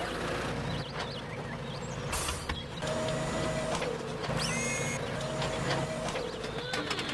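Steady low engine rumble of a tractor sound effect. Short high squeaks and a held tone come and go over it, the tone about three seconds in and again near the end.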